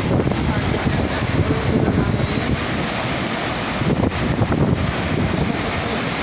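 Steady rush of water pumped over the FlowRider surf simulator, with wind buffeting the microphone.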